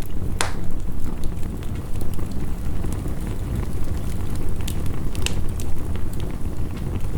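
Wood fire crackling, with sharp pops and ticks over a steady low rumble; one loud pop comes just under half a second in and another about five seconds in.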